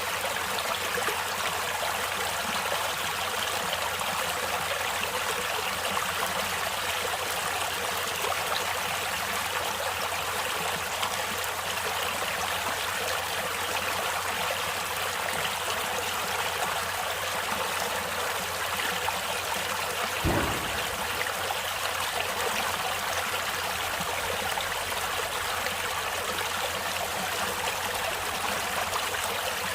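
A natural stream of water flowing steadily, an even rushing and trickling. A single brief low thump comes about two-thirds of the way in.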